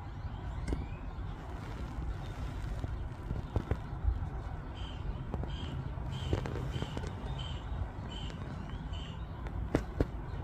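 A bird calls a run of about nine short, evenly spaced high notes, about two a second, midway through. There are a few sharp knocks, the loudest near the end, over a steady low outdoor rumble.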